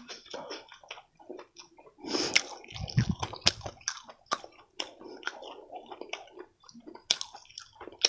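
Close-miked mouth sounds of a person chewing food: irregular wet smacks and clicks, with a low thump about three seconds in.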